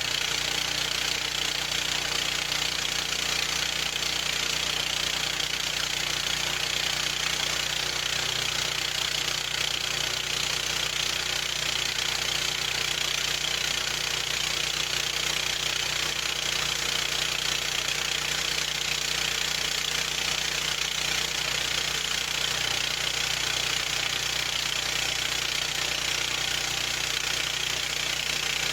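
Gasoline engine of a Harbor Freight band sawmill running steadily at a constant speed, with no let-up.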